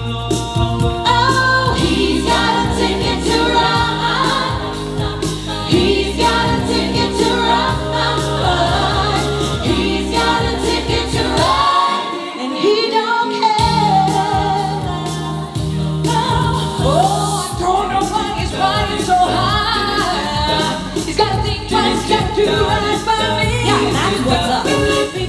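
A group of singers performing in harmony over a bass backing, with several voices in layered parts. The bass drops out for a moment about halfway through, then comes back.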